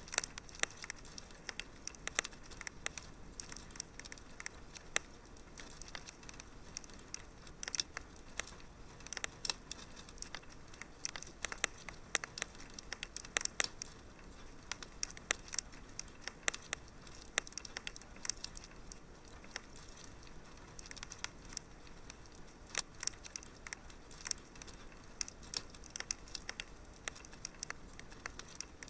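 Wood fire crackling in a fireplace: irregular small snaps and pops, several a second, over a faint steady hiss.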